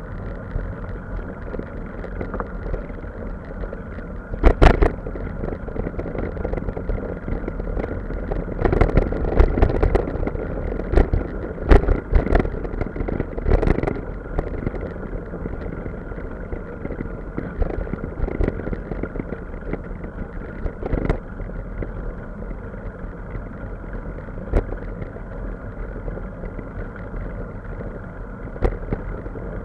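A steady low vehicle rumble with scattered sharp knocks and clatters, most of them in the middle of the stretch.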